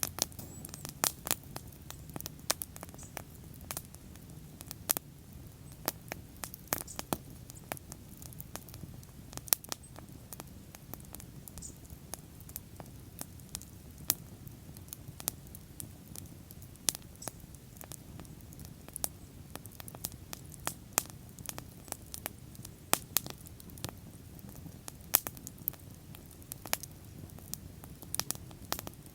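Bonfire burning: wood crackling and popping in irregular sharp snaps over a low, steady rumble of the flames.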